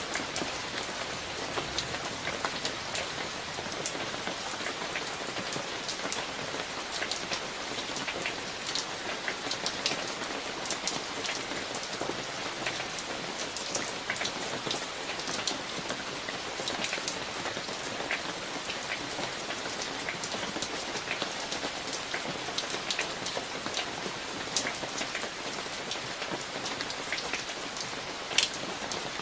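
Steady rain falling on hard surfaces, with many sharp individual drop ticks and splashes over an even hiss; no thunder is heard.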